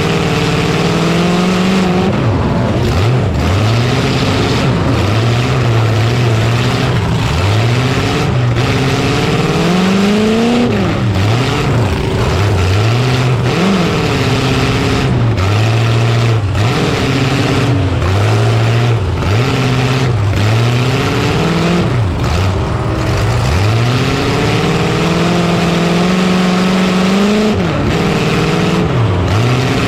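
Demolition derby truck's engine revving up and down again and again, its pitch climbing and falling every second or two, with brief breaks in the sound.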